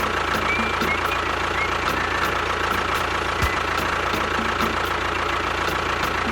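A small motor running steadily with a held whine, a few faint short chirps and occasional low thumps.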